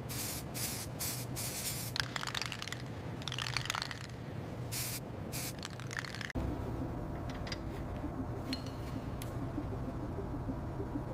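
Short bursts of spraying hiss, about a dozen in the first six seconds, then a steady low hum with a few faint clicks.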